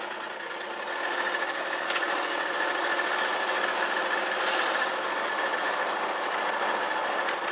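1965 Ford Galaxie 500 under way, its engine and road noise heard from inside the car, with a steady high whine running through it. The sound swells about a second in as the car speeds up and the automatic transmission shifts.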